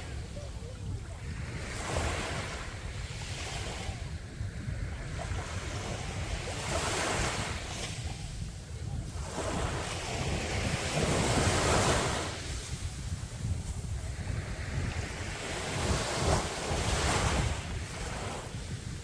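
Sea waves breaking on the beach, the surf rising and falling in several surges, the strongest about two-thirds of the way through. A steady low rumble of wind on the microphone runs underneath.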